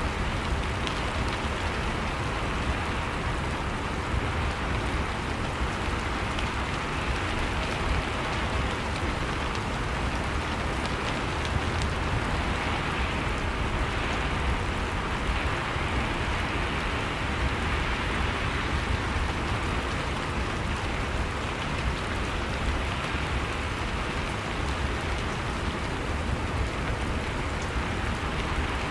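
Steady rain falling in a dense, even patter of drops.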